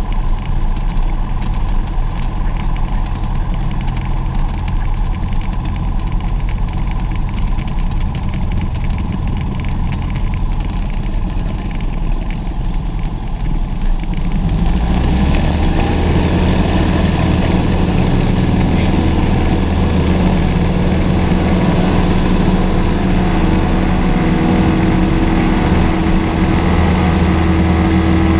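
Aircraft engine running steadily. About halfway through it gets louder and fuller and stays there, as power is brought up.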